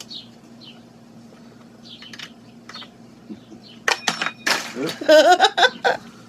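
Small metal parts and tools clinking: a few light taps, then about four seconds in a louder run of sharp metallic clinks and rattles as engine-mount hardware is handled.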